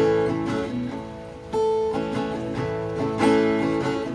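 Acoustic guitar strummed between sung verses: three chords about a second and a half apart, each left ringing.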